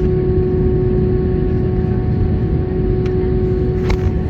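Steady airliner cabin noise on the ground before takeoff: a low rumble with a constant hum, and a short click about four seconds in.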